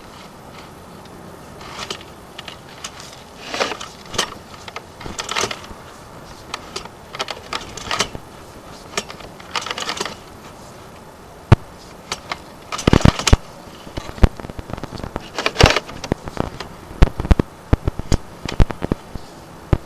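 Sewer inspection camera's push cable being worked down a vent pipe: irregular scraping and rattling with sharp clicks and knocks, busiest and loudest in the second half.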